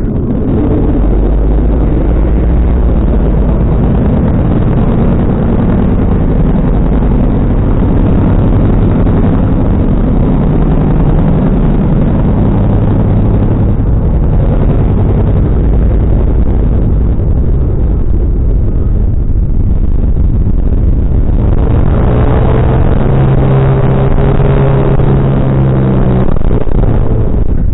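Car engine and exhaust running loud, its pitch wandering up and down as it pulls, then holding a steadier drone near the end.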